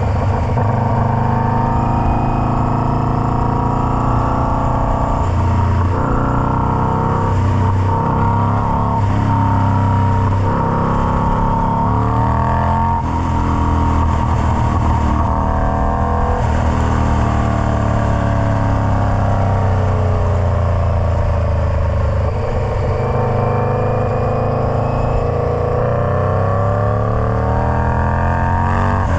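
Indian Scout Bobber's V-twin engine running through a Freedom Performance Combat 2-into-1 exhaust. The engine speed keeps rising and falling, each swell lasting several seconds.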